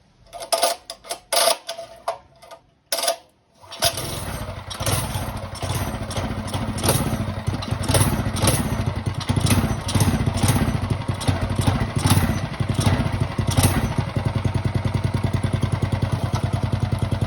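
A few short pulls on a mini bike's recoil starter, then about four seconds in the small engine catches and keeps running, with brief regular surges.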